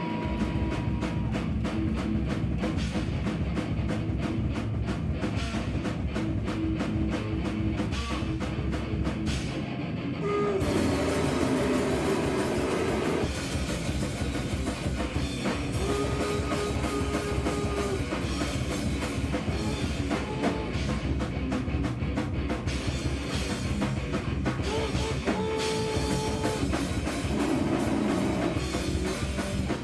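Live rock band playing a song, with drum kit and guitar. The full band comes in right at the start, and the sound grows fuller about ten seconds in.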